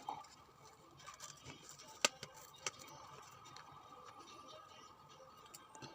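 Quiet room with a faint steady hum and a few soft, sharp clicks or taps, the loudest about two seconds in.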